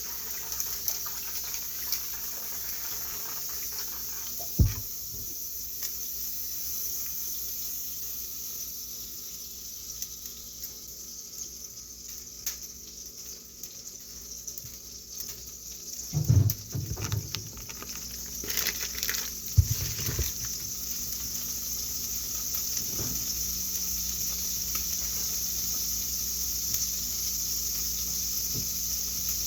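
Food sizzling steadily in a frying pan, broken by a sharp knock about four seconds in and a run of knocks and clatters of pans or utensils past the middle.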